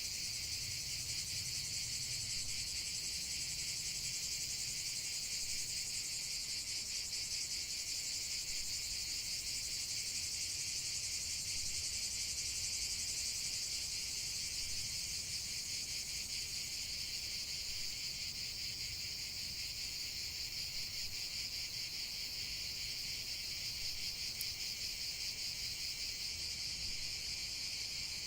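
A dense chorus of insects chirping steadily at a high pitch, made of fast, even pulses with no break.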